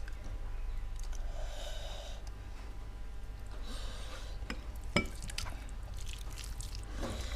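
Close-miked eating sounds: wet chewing and sucking at food, with two longer hissy slurp-like stretches and a sharp click about five seconds in, over a steady low hum.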